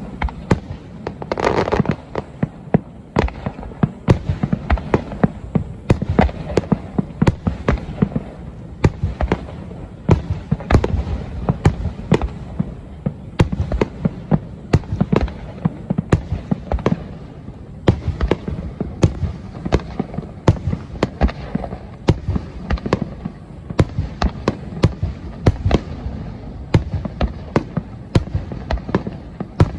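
Aerial fireworks display going off in a dense barrage: sharp bangs and crackles, several a second, over a constant low rumble of bursts.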